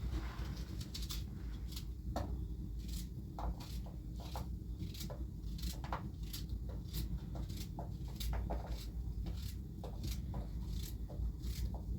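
Irregular light knocks and clicks, several a second, over a steady low rumble.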